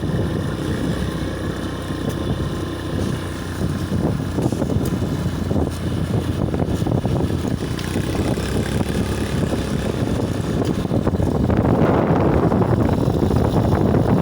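Wind rumbling on the microphone while riding a bicycle along a road, with the low hum of traffic, growing louder about twelve seconds in.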